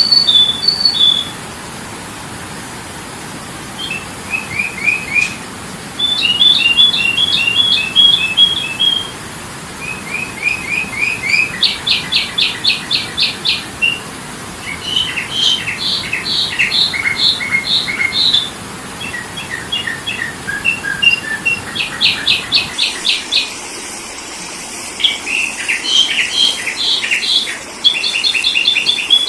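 Sooty-headed bulbul (kutilang) calling: phrases of quick, repeated chirping notes and rapid trills, each a second or two long, separated by short pauses.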